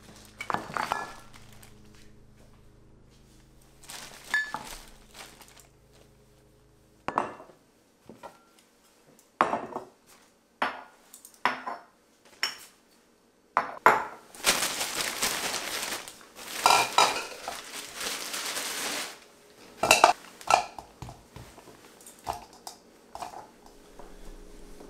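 Glass bottles set down one after another on a tiled countertop, a dozen or so sharp clinks and knocks, with a plastic shopping bag rustling for several seconds in the middle.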